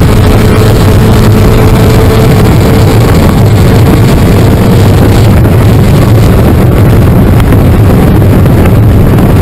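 Spec Miata's four-cylinder engine running hard near redline, heard loudly from inside the stripped race cockpit with wind and road noise. There is one upshift from fourth to fifth partway through.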